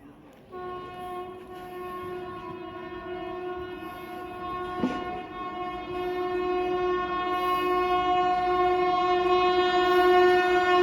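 Electric express train's horn sounding one long, steady blast that grows louder as the train approaches at speed, with a single sharp click about five seconds in.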